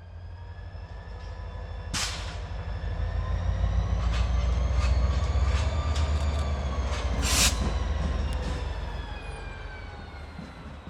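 Diesel locomotive of a CSX local freight train passing slowly, its low engine rumble swelling to a peak midway and then fading. Steady high whining tones run over it, rising a little and then falling. Two short, loud noise bursts come about two and seven seconds in.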